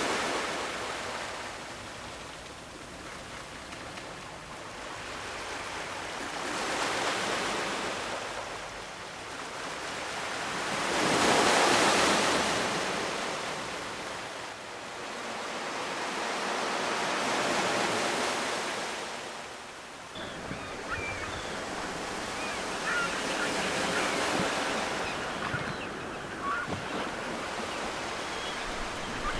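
Ocean surf: waves wash in and draw back in slow surges several seconds apart, the loudest about a third of the way through. In the last third, faint bird calls come through over the surf.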